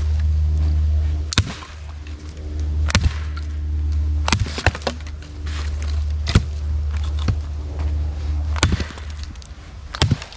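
A blade chopping into wood, about eight sharp strikes at uneven intervals, as wood is split and cut up.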